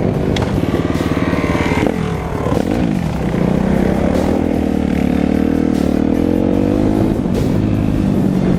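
Small off-road engines of dirt bikes and quads running under way. In the first few seconds their pitch falls and rises as they rev and shift, then it holds a fairly steady cruising note.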